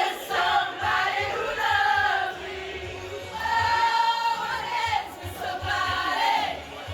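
Several voices singing together over music with a steady low beat, with one long held note near the middle.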